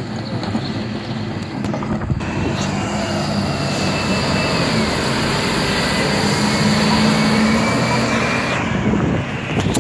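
Refuse collection truck running close by. Its sound grows fuller about two seconds in, holds steady with a faint high whine, and eases off near the end.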